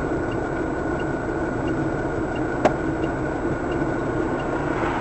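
Steady car engine and road noise heard from inside the cabin, with a faint tick repeating about one and a half times a second and a single sharp click about two and a half seconds in.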